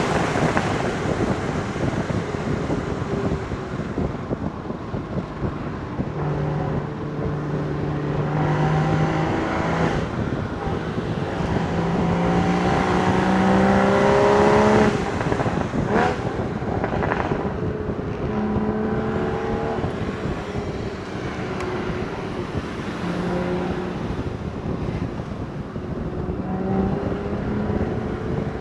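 Porsche Boxster Spyder 981's 3.8-litre flat-six running under way over steady wind noise. Its note climbs in pitch several times as the car accelerates and drops back at each gear change, with a sharp click about sixteen seconds in.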